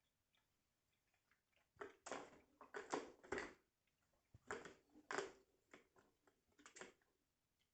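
Faint scratchy rustling and scraping in short clusters: a run of them about two seconds in, more around four and a half seconds, and a brief one near the end.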